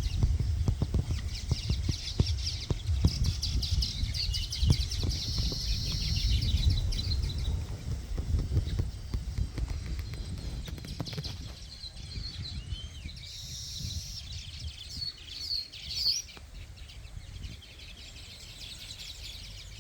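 Small birds chirping and calling, with clear short chirps about two thirds of the way through. A low rumble with scattered knocks sits under the first half and fades after about twelve seconds.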